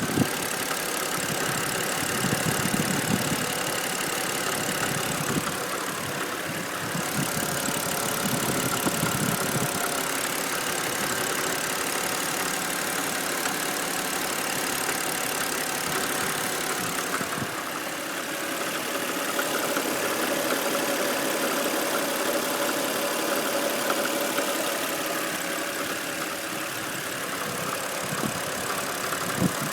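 BMW N52B25 2.5-litre straight-six engine idling steadily with a knock in it whose source is unknown.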